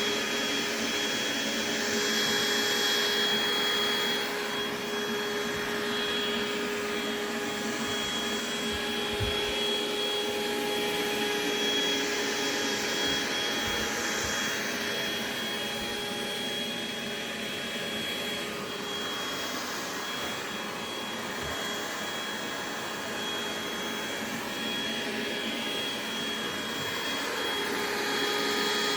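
Robot vacuum cleaner running steadily, a motor hum with a thin high whine, rising and falling slightly in loudness.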